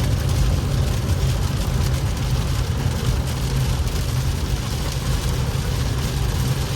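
Infiniti Q50s heard from inside the cabin while driving in heavy rain: a steady low road and engine rumble under a constant hiss of rain on the car.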